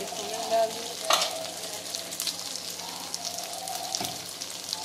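Chicken pieces sizzling and crackling in a non-stick wok with a little sauce, stirred with a wooden spatula. One sharp knock about a second in.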